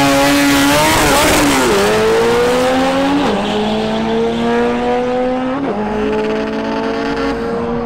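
Honda Civic hatchback's four-cylinder engine at full throttle on a drag-strip run, its pitch climbing and then dropping sharply at each upshift, about four shifts, as the car pulls away.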